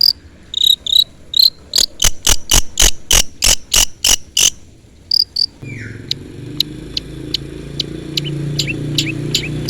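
Long-tailed shrike (cendet) calling: a few short high chirps, then a run of about a dozen harsh notes at about four a second, then a quickening series of short falling chirps over a low steady hum.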